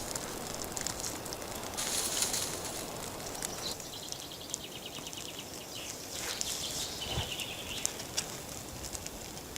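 A small songbird singing a rapid trill twice, over a faint rustling background with scattered light clicks.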